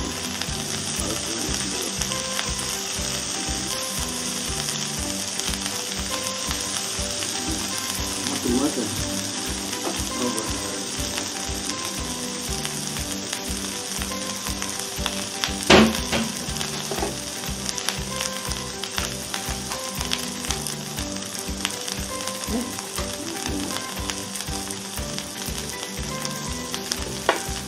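Smashed potatoes with cheese sizzling steadily as they fry in a frying pan. A single sharp knock about halfway through.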